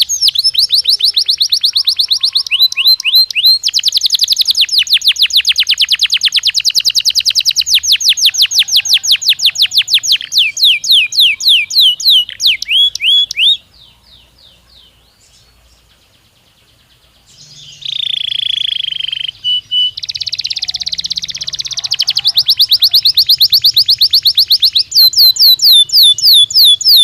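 Domestic canary singing long, rapid trills of repeated high notes, one roll after another. The song drops to a few soft notes for about four seconds midway, then resumes with a short held note and more fast trills.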